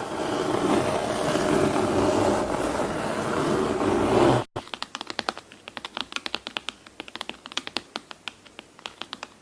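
A steady rushing noise, like surf or wind, that cuts off abruptly about four and a half seconds in, followed by rapid, irregular light clicks and taps like typing on a keyboard.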